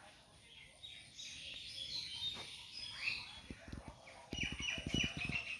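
Several birds chirping and calling, with short high chirps and quick up-and-down glides. Past the middle, a run of short, low thuds or rustles sounds underneath.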